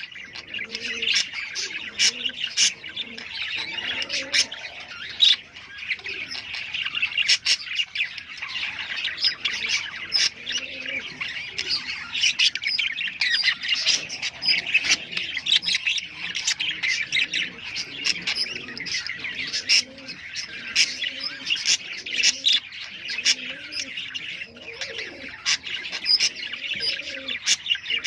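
A flock of lovebirds and budgerigars chattering, chirping and squawking continuously, dense and unbroken. This is the breeding chatter used to get pet pairs in the mood to mate.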